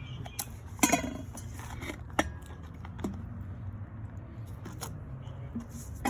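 A few separate metallic clinks and clanks of hand tools and parts being handled, spaced a second or so apart, over a steady low hum.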